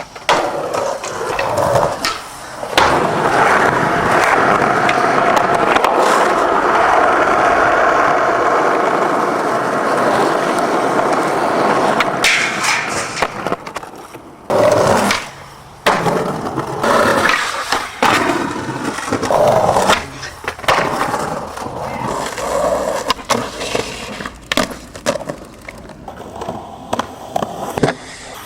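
Skateboard wheels rolling steadily for several seconds, then a series of sharp board pops, clacks and landings with short breaks between them.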